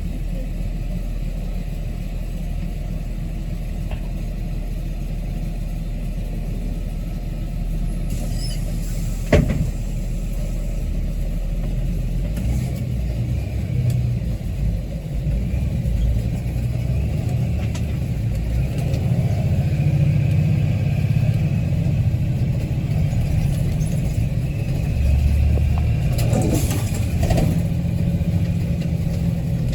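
Transit bus engine running, with a sharp knock about nine seconds in; from about twelve seconds the engine note rises and grows louder, as under acceleration.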